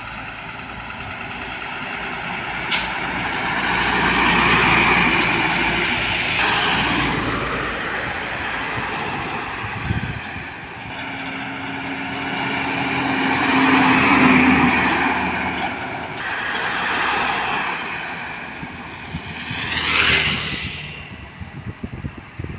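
Heavy trucks driving past one after another: engine and tyre noise swells as each one passes, then fades. There is a sharp click about three seconds in.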